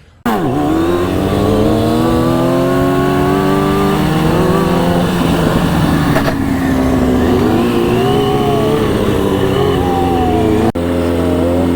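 Sport motorcycle engine pulling hard: its pitch climbs for about four seconds, then eases off and changes with the throttle. It starts abruptly and has a sharp break near the end.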